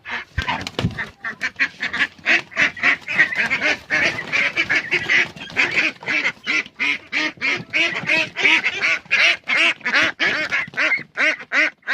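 Young laying ducks quacking in a fast, loud run of short calls, about three a second. A few low thumps come near the start.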